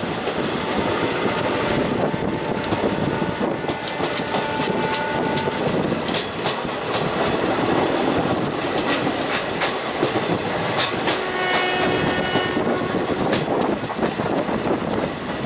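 Indian Railways passenger train running at speed, heard from an open coach window: steady rushing air and rolling noise, with wheels clicking sharply over rail joints. About eleven seconds in, a horn-like tone sounds for about two seconds.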